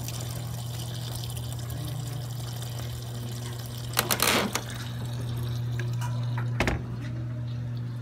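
Sharp ES-JX105A9 top-load automatic washing machine filling its tub with water for the rinse: a steady rush of inflowing water over a low hum. A couple of short sharp knocks come about four seconds in and again past six seconds.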